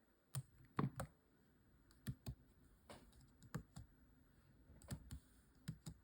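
Faint computer keyboard typing and clicking: about a dozen short, irregular key taps.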